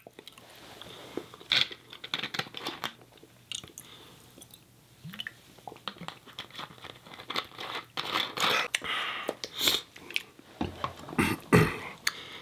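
A person chewing food close to the microphone, with irregular clicking and smacking mouth sounds. The chewing is busiest about eight to ten seconds in.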